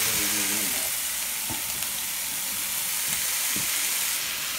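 Two pieces of meat sizzling steadily in a hot nonstick frying pan, a constant bright frying hiss.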